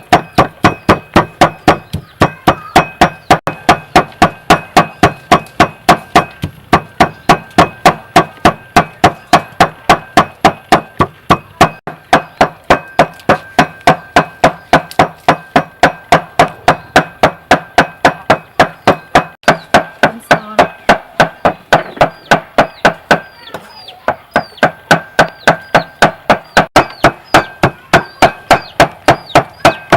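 Steady rhythmic strikes of food being pounded or chopped, about three a second, each a sharp knock with a short ringing tone, with a brief pause near the end.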